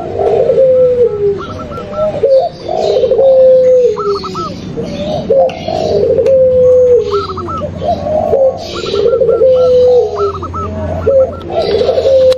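Several doves cooing together in an overlapping, repeating cycle: zebra dove, spotted dove and ringneck (puter pelung) dove calls layered into a lure track. A low falling coo comes back about every two and a half seconds, with quicker higher coo notes between, over a faint low hum that grows louder in the second half.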